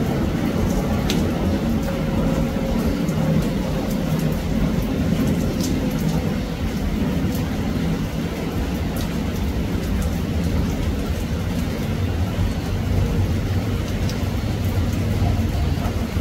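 Steady rainfall with a low, even rumble, and a few sharp drip clicks about a second in, near the middle and near the end.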